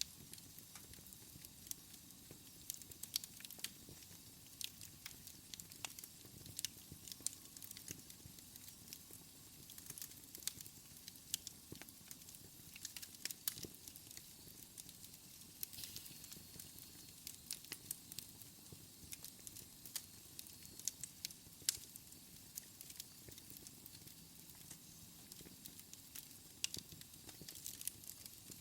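Wood fire burning in a fireplace, crackling and popping in quick, irregular snaps over a soft hiss.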